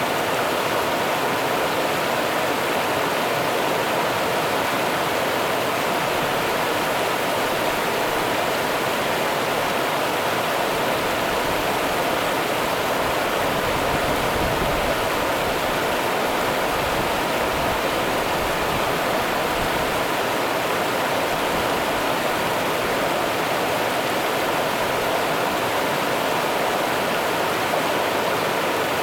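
River water running over rocks, a steady rushing.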